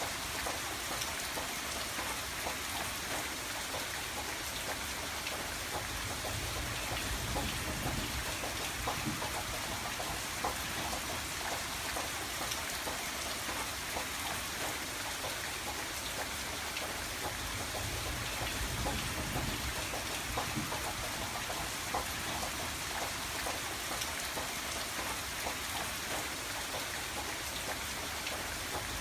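Steady rain falling on a window, with many small drop ticks over a constant hiss and a soft low rumble underneath.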